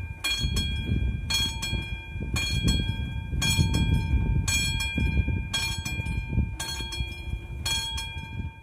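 Classic mechanical bell of an AŽD 71 level-crossing warning signal ringing, one ringing stroke about every second, while a diesel train rumbles across the crossing.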